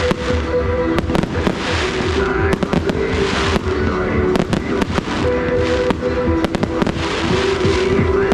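Fireworks display going off: many sharp bangs in quick succession and swells of crackling, over music with held notes.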